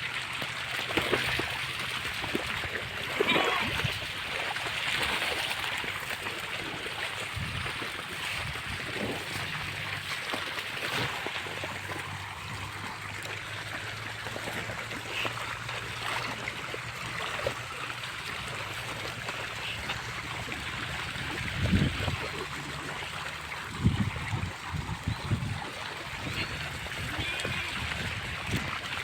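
Rain-swollen stream running steadily, with splashing as sheep wade through it. A few brief louder knocks and low calls come near the end.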